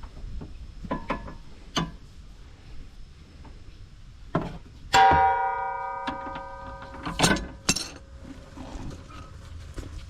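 Metal hand tools knocking and clanking during work on a car's suspension, with one loud ringing metallic clang about five seconds in that rings on for over a second, then two more sharp clanks.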